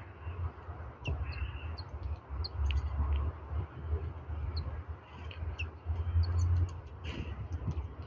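Wild birds calling with short, scattered high chirps, over a strong low wind rumble on the microphone.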